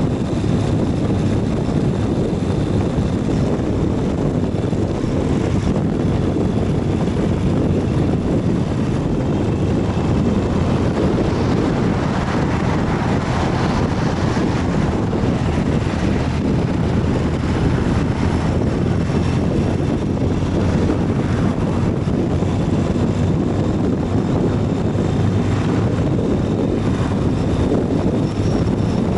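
Ural 750 motorcycle's air-cooled flat-twin engine running steadily while riding, a continuous low drone.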